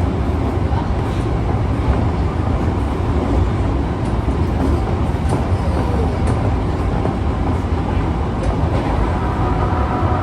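Osaka Metro 22 series subway car 22962, a car noted for its unusual running noise, running at speed: a steady loud rumble of wheels and running gear, with a faint whine rising near the end.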